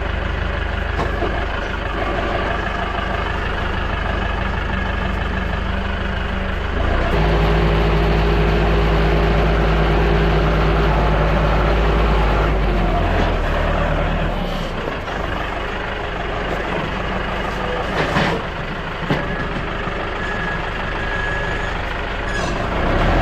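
Tractor engine running steadily, its note shifting as the engine speed or load changes about seven seconds in and again around thirteen to fifteen seconds in. Two brief knocks come near the end.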